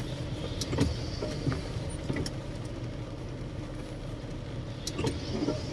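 Steady low rumble of a car's engine and road noise heard from inside the cabin while driving, with a few faint ticks.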